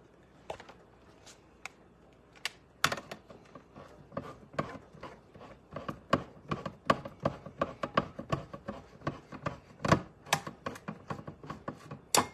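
Hand-cranked can opener being turned around a can of diced tomatoes: a rapid series of sharp clicks, sparse at first, then several a second from about three seconds in.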